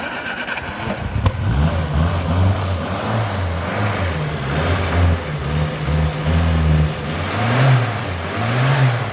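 1968 MG 1300's four-cylinder A-series engine running from a cold start and revved up and down several times, its pitch rising and falling. The engine is stone cold.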